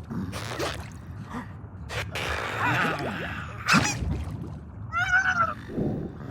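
Cartoon sound effects and wordless character vocal noises: short knocks and swishes, a gasp-like breath, a sharp hit a little before the four-second mark and a brief warbling call about five seconds in.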